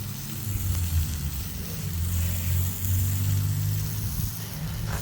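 Sawmill engine running steadily with a low, even hum.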